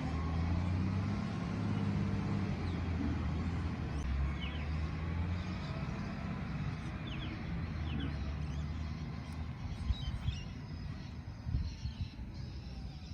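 Garbage truck's diesel engine running with a steady low drone that fades over the last few seconds. Birds chirp briefly over it.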